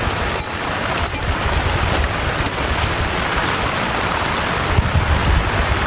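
Heavy rain falling steadily, with wind gusting as a low rumble underneath and a few faint ticks of drops.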